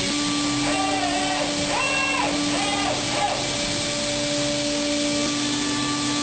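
Steady machine noise: a loud even hiss with a steady hum under it, with brief voices in the background between about one and three seconds in.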